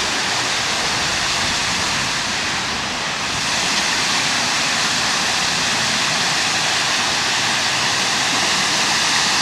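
Steady rush of water from a boulder waterfall splashing into a swimming pool.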